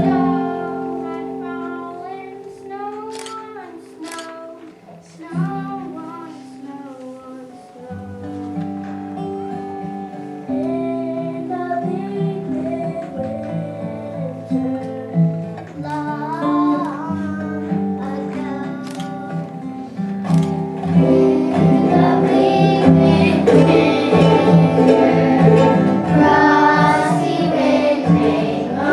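Children singing with plucked guitar accompaniment, the sound growing fuller and louder about two-thirds of the way through as more voices come in.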